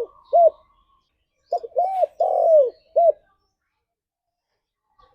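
Spotted dove (tekukur) cooing: the short last note of one phrase, then about a second and a half in a full four-note phrase. That phrase has a short note, an arched coo, a long falling coo and a short closing note.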